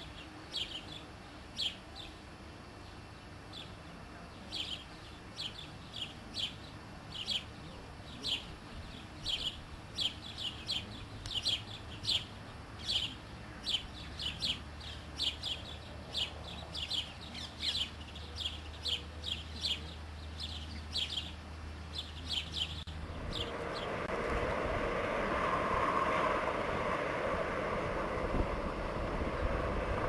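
A small bird chirping over and over, short high notes about one or two a second. About three-quarters of the way through, the chirping cuts off and a steady rushing noise takes over.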